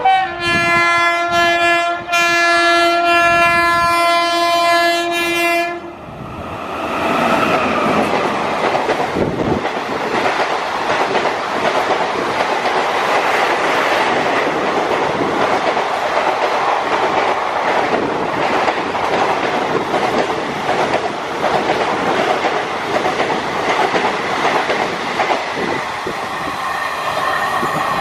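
Indian Railways locomotive horn sounded in two blasts, one of about two seconds and then a longer one of about four, on a single steady pitch. It is followed by the train running past, its wheels rattling over the rail joints.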